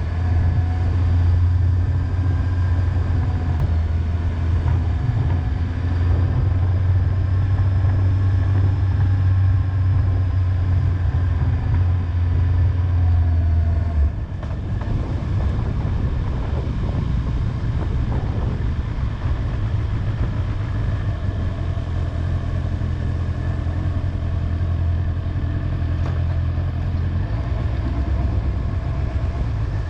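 Honda motorcycle's engine running steadily under way, a low steady drone that drops a little about halfway through.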